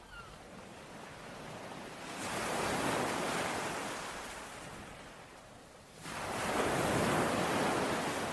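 Ocean waves breaking on a shore twice: each swells up in a rush of surf and then washes out and fades, the second arriving more suddenly about six seconds in.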